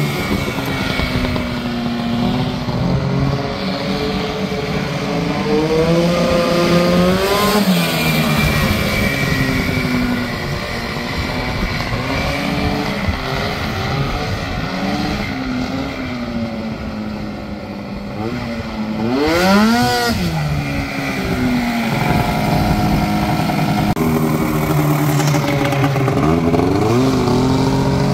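Ski-Doo Rotax 670 rotary-valve two-stroke engine in a Honda Pilot running under a varying throttle, its pitch rising and falling again and again. About two-thirds of the way through it revs sharply up and drops back down.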